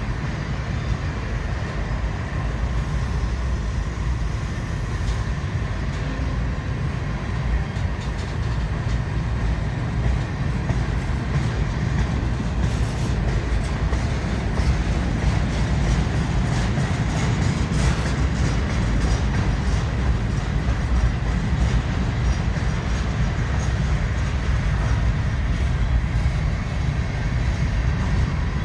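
Long freight train rolling past at slow speed: a steady low rumble of wheels and cars, with scattered clicks of wheels over the rail joints.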